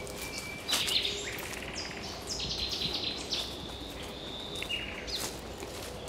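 A songbird singing a varied phrase of quick high notes and short trills, starting about a second in, over footsteps crunching on dry leaf litter.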